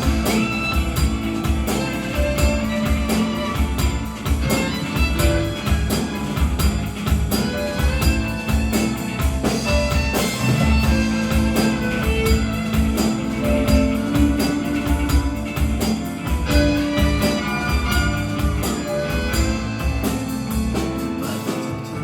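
Live band playing an instrumental passage between sung verses, with a steady beat. The band thins out near the end, just before the vocals return.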